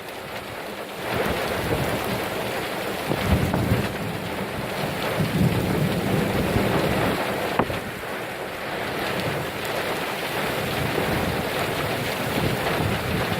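Heavy rain pouring steadily, with low rumbling swells a few seconds in.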